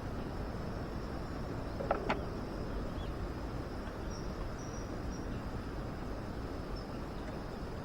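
Crickets or other insects chirring steadily in a high, thin band over outdoor background noise. Two sharp clicks come about two seconds in.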